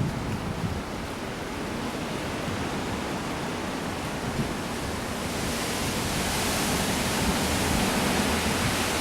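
Thunderstorm rain and wind: a steady rushing hiss that grows louder and brighter about five seconds in.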